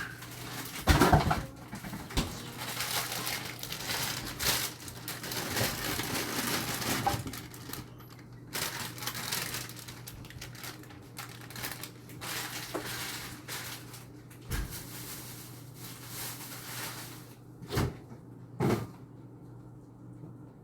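Kitchen handling noises: long stretches of rustling and crinkling, with a few separate knocks and clunks, over a steady low hum.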